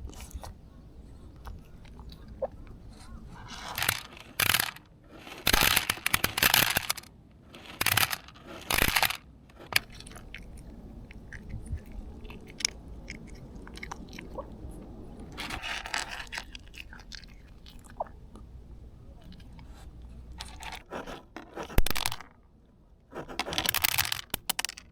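Cat eating dry food, crunching it in several bursts with pauses between, and gulping audibly as it swallows.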